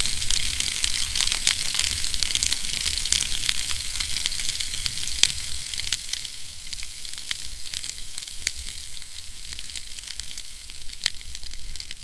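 Wood fire burning in a fireplace: a dense crackle of snaps and pops over a steady hiss, busier in the first half and thinning out after about six seconds, with a sharper pop about five seconds in.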